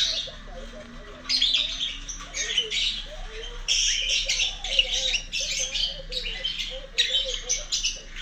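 Lovebird giving rapid, shrill, chattering calls in bouts, with a short lull about a second in: contact calling for its missing flockmates.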